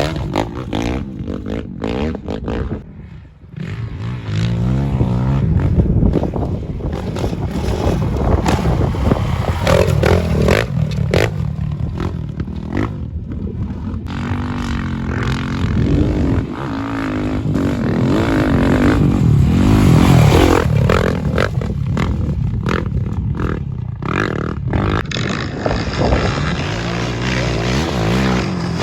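Off-road motorcycle engines running and revving, their pitch rising and falling over and over, with a brief lull about three seconds in.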